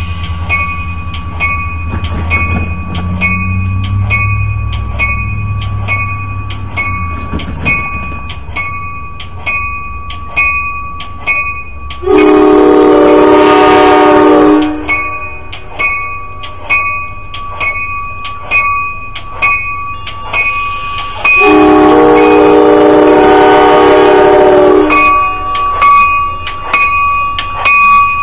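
Railroad grade-crossing warning bell ringing in a quick, even rhythm, while a departing diesel passenger train's low engine rumble fades away over the first several seconds. The train's horn then sounds two long blasts, the second longer; these are the loudest sounds.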